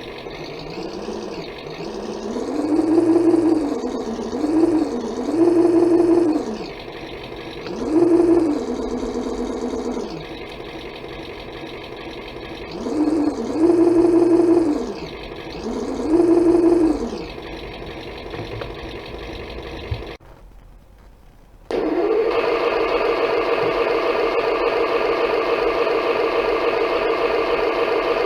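Simulated engine sound from an RC engine sound controller's speaker, slightly muffled. It idles and is revved up and back down several times, then shuts off. After a brief pause a different engine sound starts and idles steadily.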